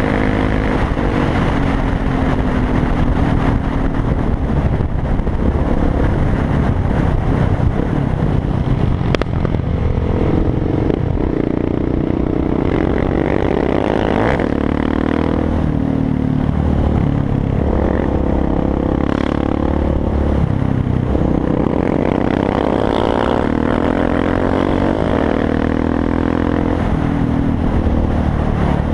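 KTM 690 Duke's single-cylinder engine running under way, its pitch climbing and dropping several times, over a steady rush of wind.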